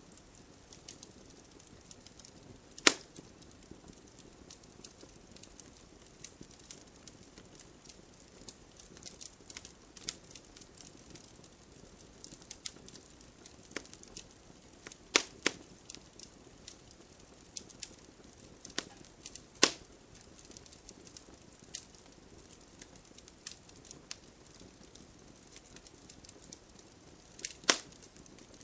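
Bonfire crackling: irregular sharp pops and snaps of burning wood over a faint steady hiss, with a few louder pops, four of them standing out.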